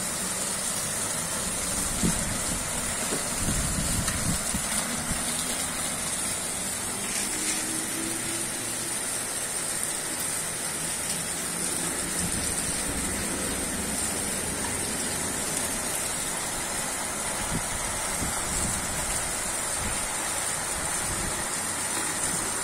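Steady tropical-storm rain falling on a wet street and roofs, a continuous hiss, with a low rumble a few seconds in.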